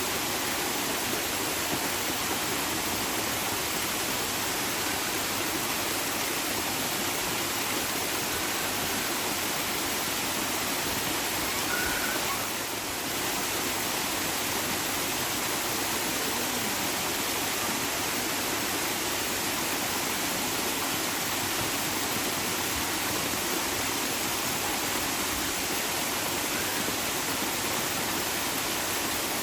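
Running water rushing steadily, an even continuous wash of noise like a stream or small waterfall.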